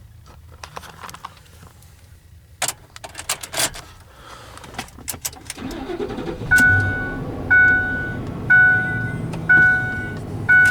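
A 2004 Ford F-150's 5.4-litre V8 starts cold about halfway through, after a few seconds of key and cab clicks, and runs. Over the engine a cab warning chime dings about once a second.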